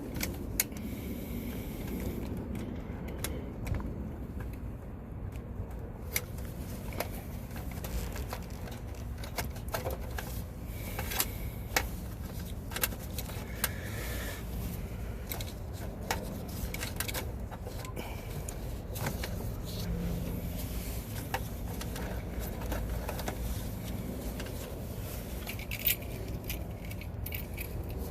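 Scattered small metallic clicks and clinks of hand tools and parts being handled during electrical work on an HVAC unit, a few sharper taps among them, over a steady low background rumble.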